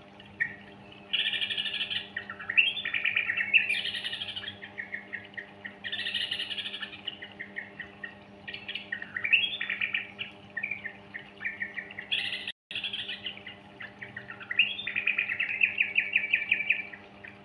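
Juvenile yellow-vented bulbul (trucukan) calling nonstop: phrase after phrase of rapid chattering chips and short warbles, over a steady low hum. The audio cuts out completely for a moment about two-thirds of the way through.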